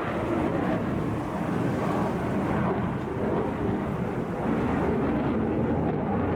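Steady rumble of a Sukhoi Su-57 fighter's twin jet engines in flight during an aerobatic display.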